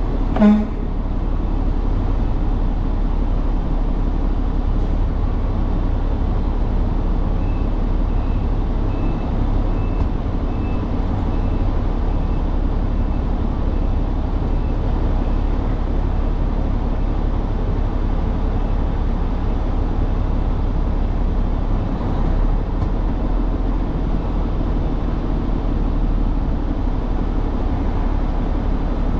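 Truck engine and road noise, a steady low rumble while driving. A short, loud sound comes about half a second in. A faint, regular ticking runs for several seconds in the first half.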